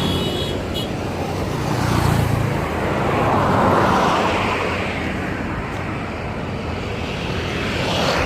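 An engine running steadily at a low, even hum, with a rushing noise that swells about three to four seconds in and then eases.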